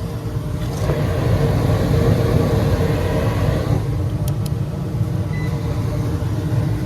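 Steady low mechanical rumble, a motor or engine running, with a faint tone that swells for a few seconds in the middle.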